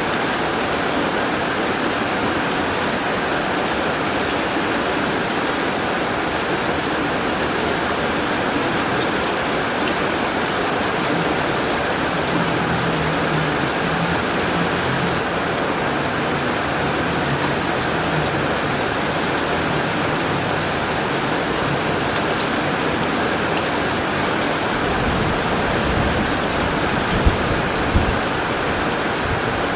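Rain falling steadily on a tin roof, an even dense patter. In the last few seconds a low rumble of thunder comes in under it.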